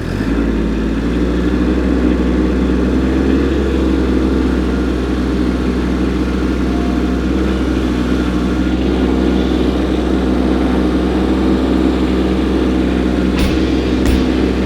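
Kubota compact tractor's diesel engine running steadily at raised throttle while the grapple works a boulder loose, rising just after the start and holding level. A few sharp knocks near the end.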